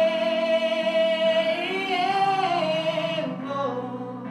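A singer holds the last word of a chorus line (雨, "rain") in a long sustained note over a soft accompaniment. The note swells and bends up partway through, then slides down and fades, leaving the accompaniment alone near the end.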